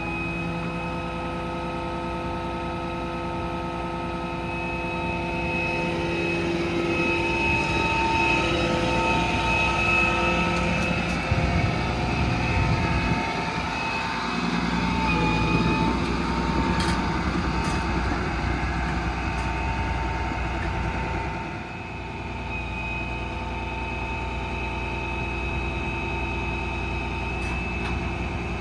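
Hydraulic service crane running off the truck's diesel engine, giving a steady whine of several held tones over an engine rumble. It grows louder from about six seconds in, wavers in pitch around fifteen seconds, and eases back near twenty-two seconds as the crane is worked.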